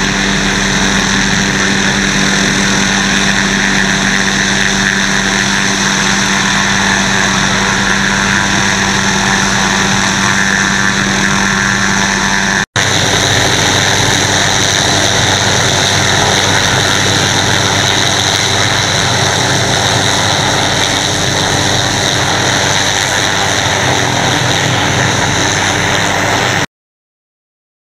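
Helicopter engine and rotor running steadily at close range, loud and continuous with a steady hum. It breaks off for an instant about halfway, resumes with a slightly different tone, and stops abruptly shortly before the end.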